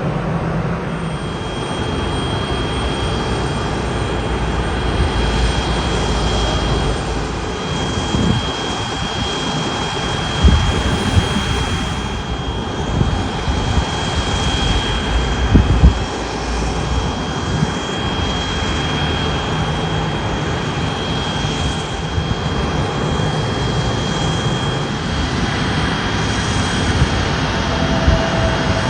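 Jet airliner engines running with a continuous rumble and a steady high-pitched whine, with a few brief low bumps around the middle.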